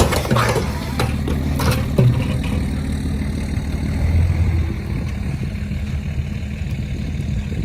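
Pickup truck engine running steadily at a low idle, with a few sharp knocks and rattles in the first couple of seconds.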